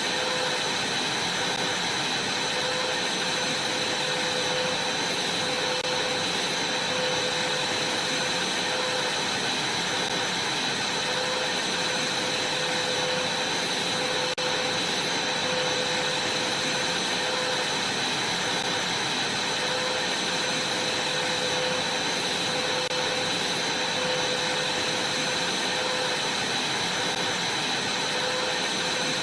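Vacuum cleaner running steadily: a constant rushing noise with a high, steady whine over a lower hum.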